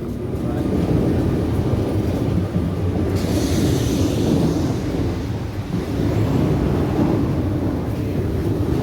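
RER C Z 20900 double-deck electric multiple unit, two units coupled, running by with a steady low rumble of wheels and traction, and a brief hiss about three seconds in.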